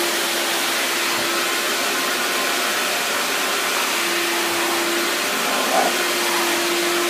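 Hoover vacuum cleaner running steadily: a constant motor hum under a wide airflow hiss.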